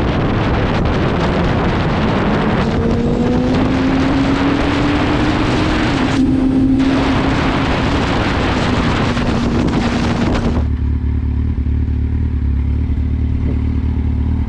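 Motorcycle ridden at road speed, with heavy wind noise on the helmet microphone and the engine note rising, then easing off. About ten seconds in, the wind noise cuts off suddenly and only a steady low engine idle remains.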